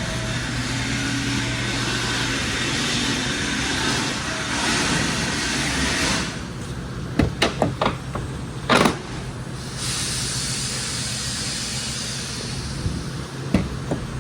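A car engine running steadily with a hissing rush, broken past the middle by several sharp knocks or clicks and one short, loud hiss.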